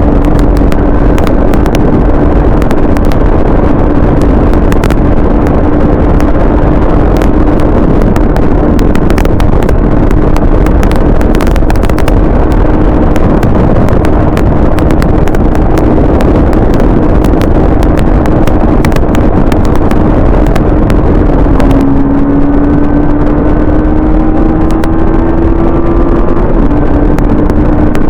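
Motorcycle engine running at a steady cruising speed under heavy wind rush. About 22 seconds in the engine note climbs steadily as it accelerates, then drops back about four seconds later with a gear change.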